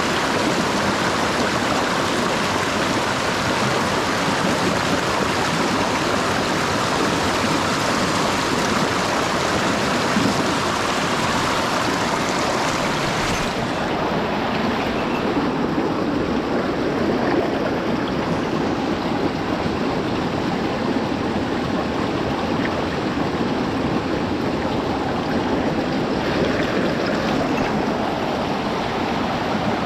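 Mountain stream water rushing steadily over rocks. About thirteen seconds in the sound loses some of its highest hiss.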